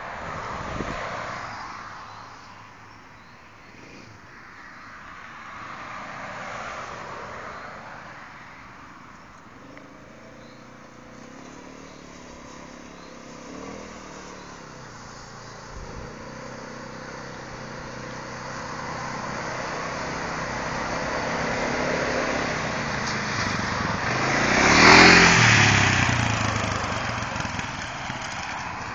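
Quad bike (ATV) engine running and revving up and down as it rides, rising and falling in loudness several times, with the loudest surge and a rushing noise about 25 seconds in.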